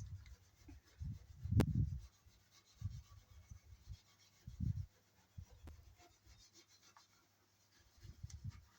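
Faint, irregular low rubbing and bumping sounds, with one sharp click about one and a half seconds in.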